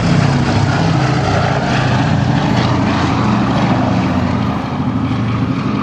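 Boeing B-17 Flying Fortress flying a display pass, its four Wright Cyclone nine-cylinder radial piston engines and propellers making a loud, steady drone. The drone eases slightly about four and a half seconds in.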